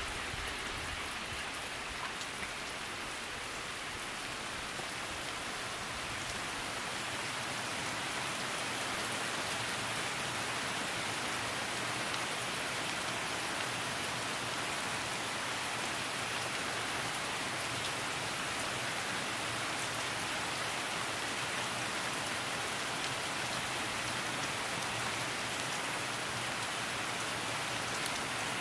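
Steady rain falling, an even hiss of countless drops with no break.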